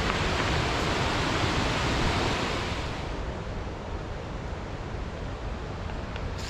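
Steady rushing of the Potomac River's falls and rapids, a continuous hiss-like roar that turns softer and duller about three seconds in.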